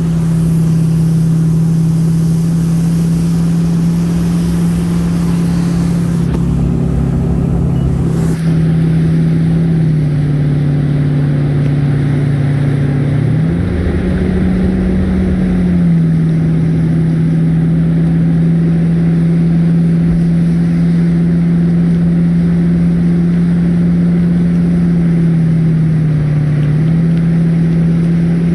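A motor running with a steady drone; its pitch rises for a couple of seconds about halfway through and dips a little twice. A loud hiss over it stops abruptly about eight seconds in.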